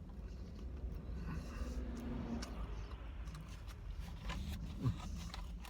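A person eating a fried chicken tender: faint chewing and small clicks and scrapes from handling the food, over a low steady hum.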